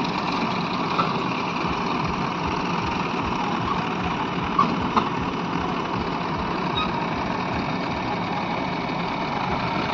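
Heavy diesel engine running steadily, with two short knocks about four and a half and five seconds in.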